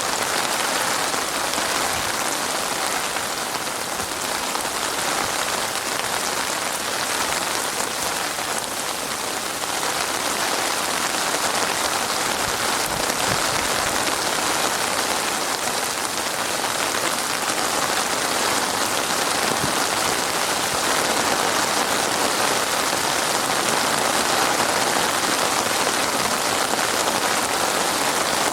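Heavy rain falling in a steady, dense patter, swelling slightly now and then.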